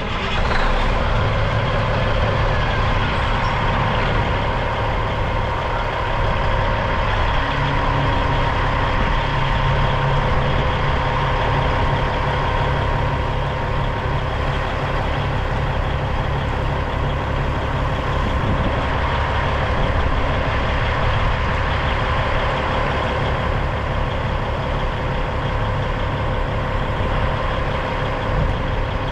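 Diesel engine of a 1997 Peterbilt 379 dump truck idling steadily.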